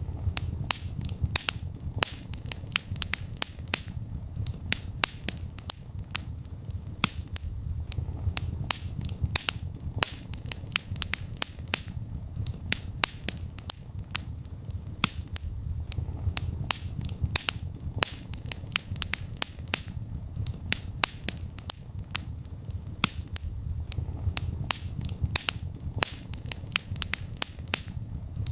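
Wood fire burning in a fireplace, crackling with frequent sharp pops and snaps, several a second, over a low rumble of the flames.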